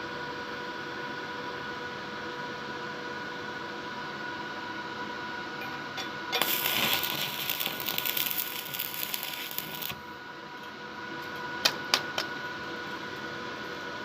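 Steady electrical hum, then about six seconds in an arc-welding arc strikes and crackles for about three and a half seconds before breaking off. Two sharp clicks follow shortly after.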